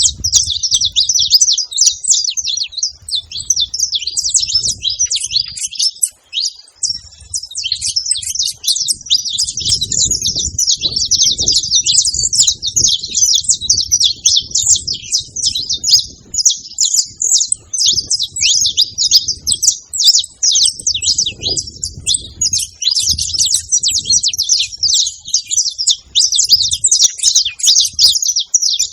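Saffron finch singing a long, rapid run of high chirping notes, nearly without pause, over a low rumble.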